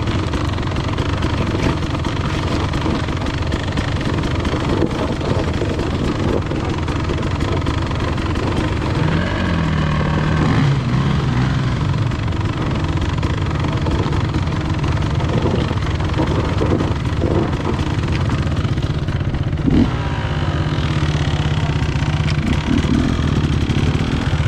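Enduro dirt-bike engine running steadily, with a brief rise in revs about nine seconds in.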